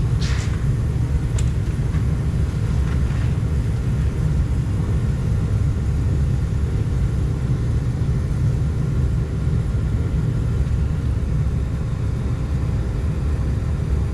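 Diesel burner of a hot-water pressure washer firing with its blower, a steady low rumble, with a couple of light clicks about a second in. The burner is still smoking heavily, which the owner tries to cure with the air damper and a smaller fuel nozzle.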